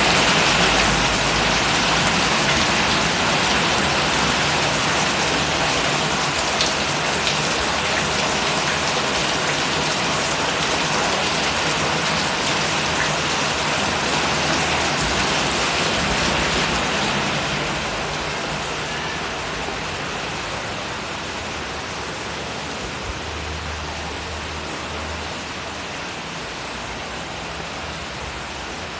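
Heavy rain falling steadily on surfaces, easing off somewhat after about seventeen seconds.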